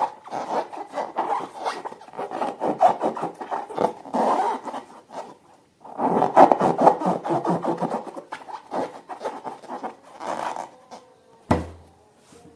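Sticky slime being squished and stirred by hand, a dense crackle of wet clicks and squelches in bursts with a short pause about halfway. A single sharp knock with a low thud near the end.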